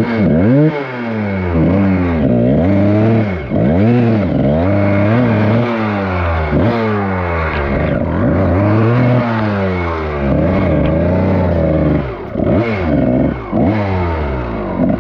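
Dirt bike engine revved hard and let fall again and again, its pitch sweeping up and down about once a second, with some clatter.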